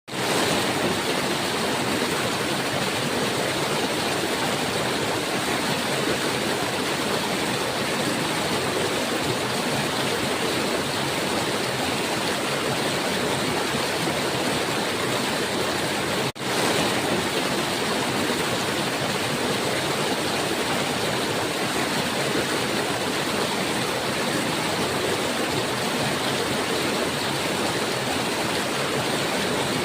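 River water flowing, a steady, even rush of water. It drops out for an instant about halfway through, then carries on unchanged.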